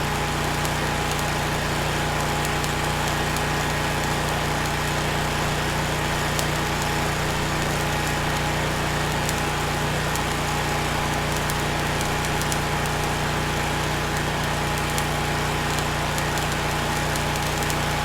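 Steady small-engine drone with a constant hiss and scattered sharp crackles, typical of arc welding on the steel frame, cutting off abruptly just after the end.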